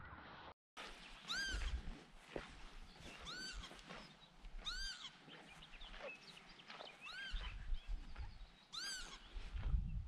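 A bird's annoyed scolding calls: a single arched note that rises and falls, repeated five times about every two seconds, as if telling intruders to go away.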